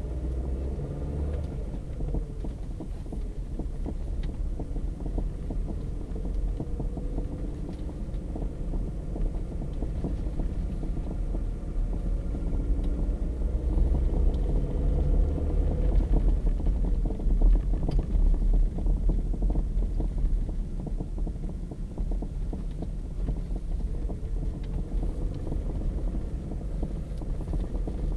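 Opel Astra J being driven, with a steady low road and running rumble and many short knocks from the suspension, getting louder in the middle stretch. The knocking is the sign of a worn suspension part.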